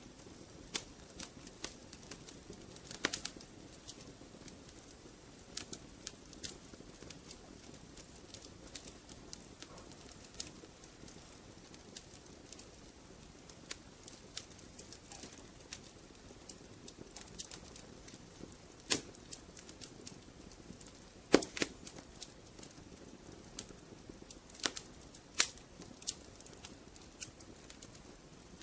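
Wood fire crackling in a fireplace: a steady low hiss with irregular sharp pops and snaps. A few louder pops come around two-thirds of the way through.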